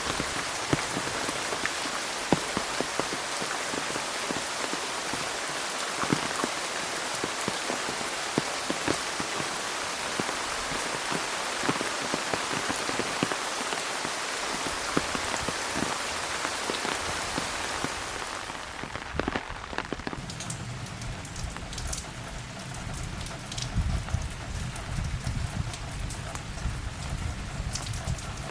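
Heavy rain of a thundershower falling steadily, with many sharp individual drops striking the umbrella held over the camera. About two-thirds of the way through the sound turns duller, with a low rumble underneath and fewer, more scattered drop hits.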